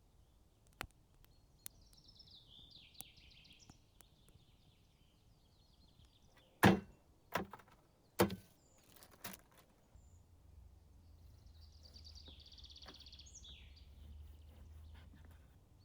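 Small birds singing two short warbling phrases, with a few light clicks and, in the middle, a quick run of four loud knocks, the loudest sounds here. A low hum comes in for the last few seconds.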